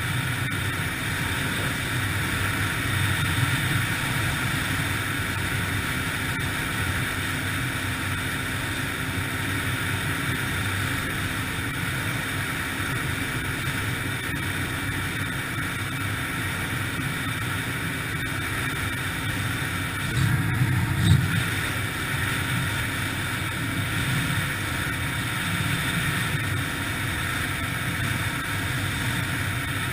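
Yamaha TTR-125LE dirt bike's single-cylinder four-stroke engine running steadily under riding load, with some wind noise. It gets briefly louder about two-thirds of the way through.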